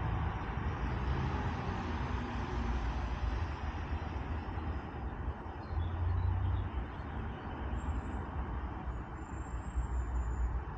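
Steady outdoor background noise: a low rumble with a hiss over it, with a few faint high chirps near the end.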